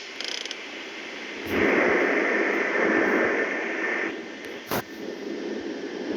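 Bus engine warming up, heard as a loud hissing rush that swells about one and a half seconds in and eases after about four seconds, with a sharp knock near the end.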